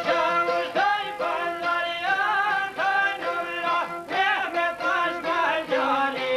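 Albanian folk music: a wavering melody line with vibrato over steady held lower notes.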